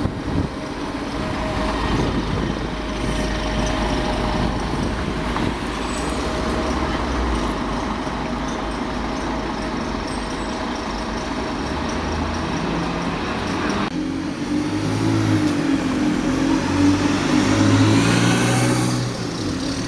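Heavy road vehicle engines running: a steady low rumble with a held whine, then, after a sudden change about fourteen seconds in, an engine with a pulsing low note that revs up near the end.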